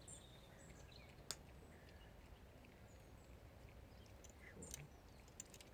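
Near silence: a faint outdoor background with a few light clicks, as small sea stones are set into wet mortar, and faint bird chirps.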